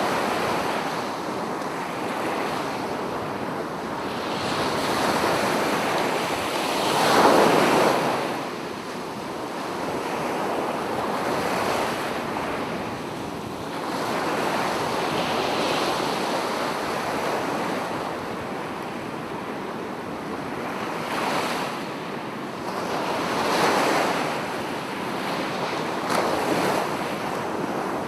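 Sea waves breaking on a beach, a steady wash of surf that swells and falls as each wave comes in. The biggest wave breaks about seven seconds in, with further surges later on.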